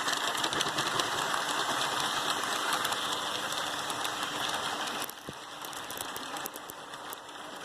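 HO scale model train running on its track: a steady rolling hiss from the wheels, with light clicks as they pass over rail joints. The sound gets quieter about five seconds in.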